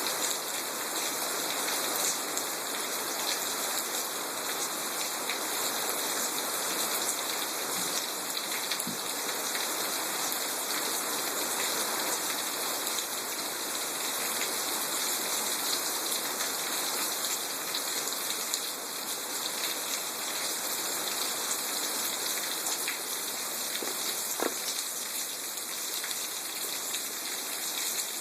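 Rain from a thunderstorm falling steadily, an even hiss with a few separate drops ticking now and then.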